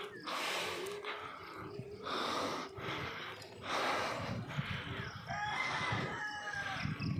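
A rooster crows once, a drawn-out call falling in pitch, about five and a half seconds in. Under it are the cyclist's heavy, rhythmic breaths, about one every second and a half, panting from the uphill climb.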